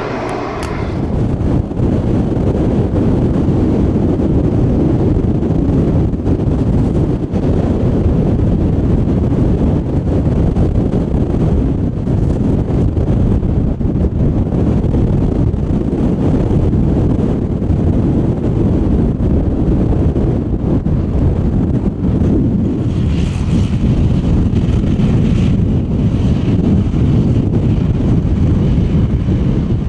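Wind buffeting the microphone: a loud, steady, low rumble, with a brief higher hiss for a couple of seconds about three-quarters of the way through.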